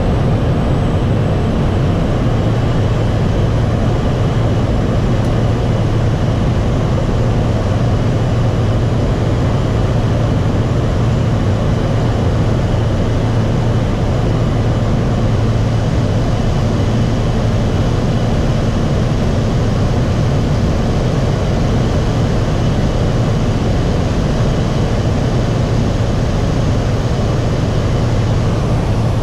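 Aircraft engine drone, steady and unchanging, with a deep hum under a broad rushing noise.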